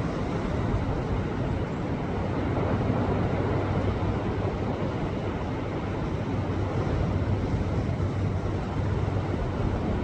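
Sea waves surging and washing over a rocky shore: a steady rush of water with a low rumble, swelling a little twice.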